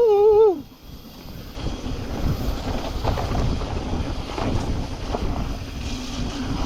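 Wind rushing over the microphone of a mountain biker's camera as the bike rolls along a dirt singletrack trail, with scattered knocks and rattles from bumps. A short wavering pitched sound cuts off about half a second in.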